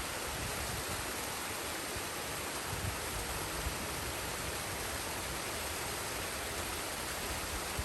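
Forest waterfall and stream: water rushing with a steady, even hiss.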